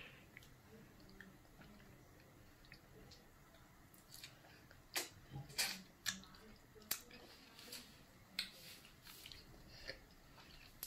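A child peeling and eating a mandarin orange: quiet wet chewing and mouth smacks, with a few short, sharp clicks in the middle.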